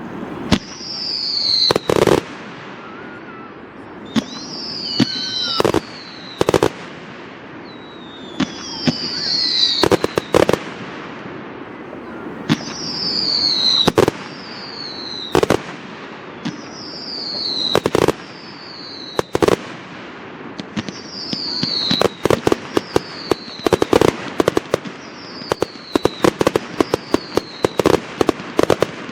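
Fireworks display: aerial shells bursting with loud bangs about every two seconds, most of them preceded by a high falling whistle. From about two-thirds of the way in, a dense run of rapid crackling pops joins the bangs.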